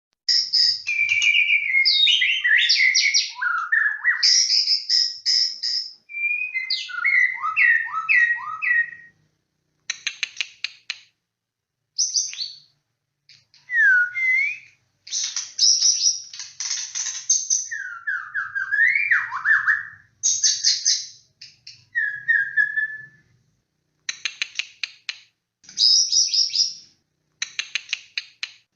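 White-rumped shama (murai batu) in full, vigorous song: rapid runs of short chipping notes alternating with clear whistles and sliding notes, in phrases broken by short pauses.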